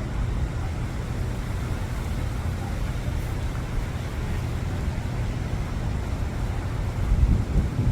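Storm wind buffeting the microphone: a steady low rumble that gusts harder near the end.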